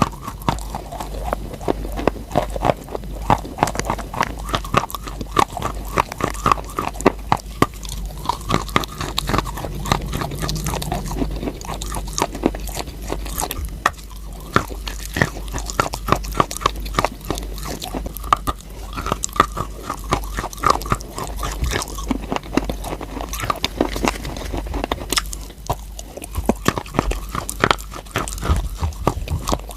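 Close-miked crunching and chewing of chalk: dense, irregular crackles and crunches as pieces are bitten and chewed, without pause.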